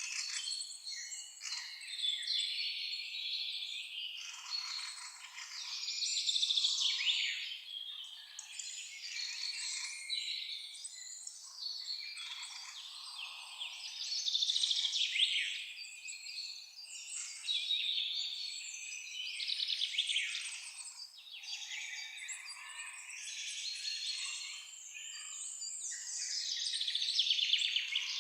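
Many songbirds singing and calling at once: a dense, overlapping chorus of high chirps and trills that swells and fades every few seconds.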